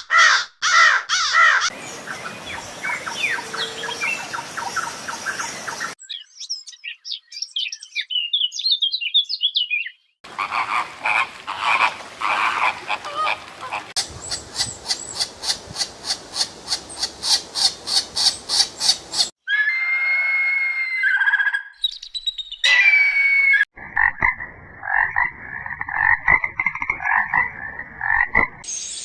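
A run of different animal calls, cut one after another. High chirping whistles give way to a fast, even rattle of pulses, then repeated pulsed calls near the end.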